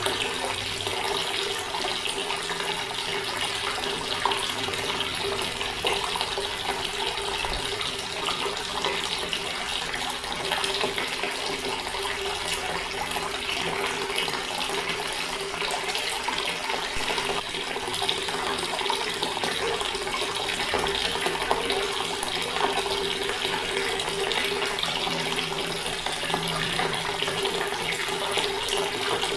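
Water tap running steadily, a continuous splashing stream with a faint steady hum underneath.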